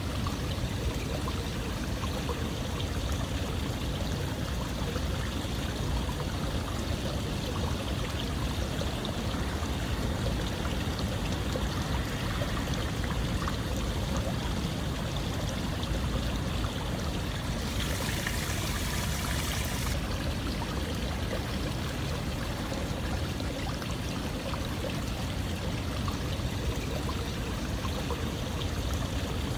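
Running water flowing steadily, like a stream or a pour of water, with a brief hissier splash about two-thirds of the way through.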